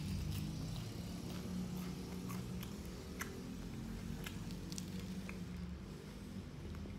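Close-up chewing and mouth sounds of someone eating a fried spring roll: scattered short crisp clicks and wet smacks over a steady low hum.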